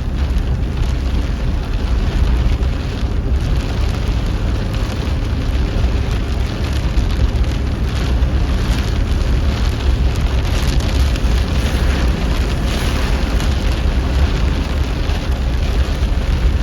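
Car cabin noise in a rainstorm: a steady low rumble with a hiss over it.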